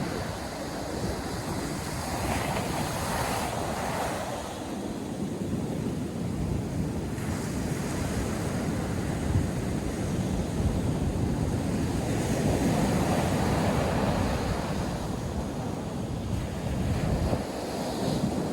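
Ocean surf breaking and washing on a sandy beach: a continuous rush of waves that swells and eases, with wind buffeting the microphone.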